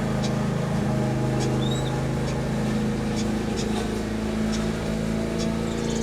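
A steady low mechanical hum, like a motor or engine running, with a few short high chirps and ticks from small aviary birds over it.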